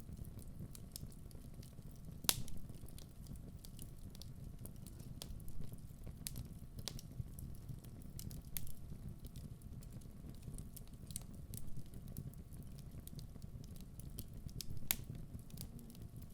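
Wood fire burning in a fireplace: a steady low rumble with scattered sharp crackles and pops from the burning logs, a louder pop about two seconds in and another near the end.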